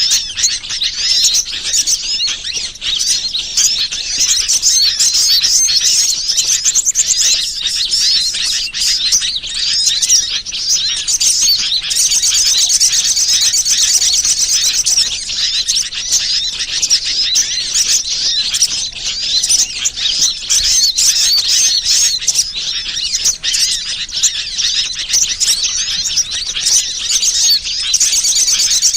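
Many small birds chirping and chattering densely and without a break, high-pitched: a bird-lure call recording of the kind played to draw wild birds in.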